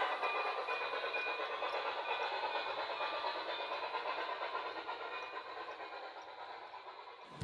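HO scale model train running on the layout, its sound steadily fading away.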